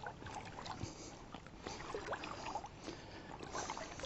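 Faint water sloshing and trickling around the legs of a person wading in waders, with scattered small clicks and knocks.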